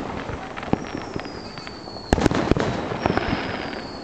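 Aerial fireworks shells bursting with sharp bangs, about a second in, a little past halfway (the loudest, a quick cluster) and again about three seconds in, each trailing off in crackle. Between the bangs, a high thin whistle slides slowly down in pitch, twice.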